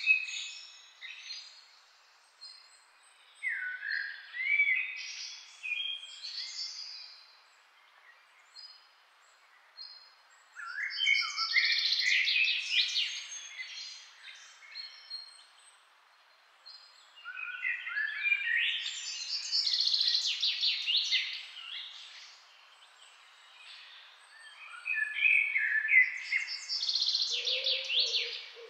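Birds singing: about five phrases of quick chirps, whistled glides and rapid trills, each lasting a few seconds, with short quiet gaps between them.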